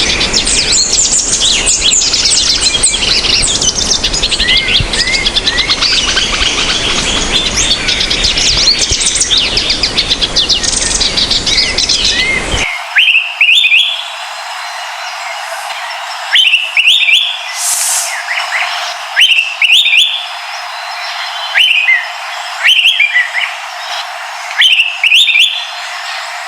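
Bird song from Brazil's Northeast in two recordings: first a dense chorus of many birds chirping over a steady hiss, then, after a cut about twelve seconds in, a single bird repeating a short rising call every second or two.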